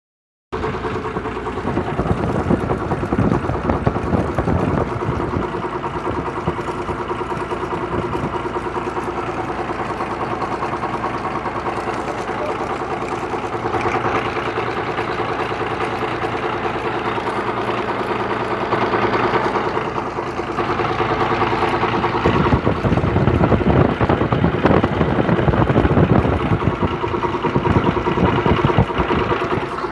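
An engine running steadily at idle, growing louder about 14 seconds in and again around 22 seconds.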